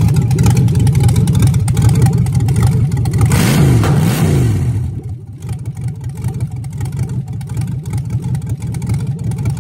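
Junkyard 5.3 LS V8 running on an engine run stand, revved up and back down about three and a half seconds in, then settling to a quieter idle. No lifter tick, even though it shows almost no oil pressure at idle.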